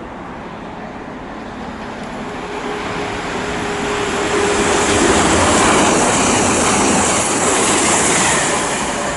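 Class 390 Pendolino electric train passing through the station at speed without stopping. The rushing wheel-and-rail and air noise builds over a few seconds, is loudest about halfway through, then eases away.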